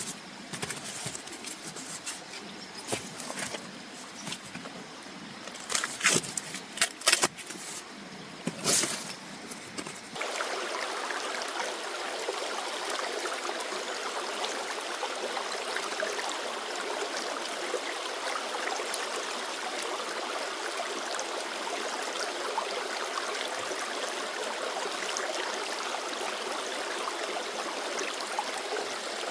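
A few sharp knocks and clatters over a quiet background. About ten seconds in, this gives way suddenly to the steady rushing of a flowing stream, which continues.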